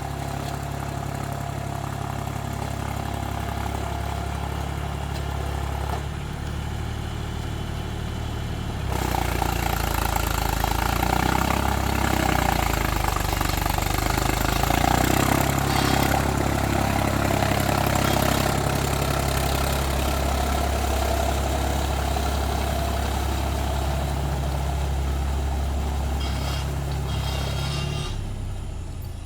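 Mahindra 275 DI TU tractor's three-cylinder diesel engine running steadily. About nine seconds in it grows louder, with a busier rattle and a slightly wavering engine note, and it fades away near the end.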